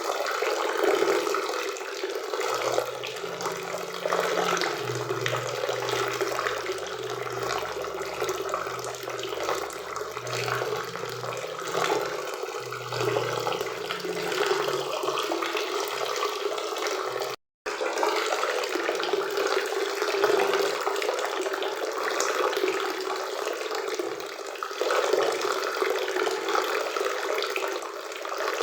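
Steady rushing of a forest waterfall and river. It cuts out for an instant about two-thirds of the way through, and a faint low hum sits underneath during the first half.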